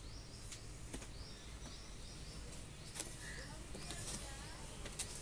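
Small birds chirping: short, high chirps repeated every half second or so, with a few faint clicks in between.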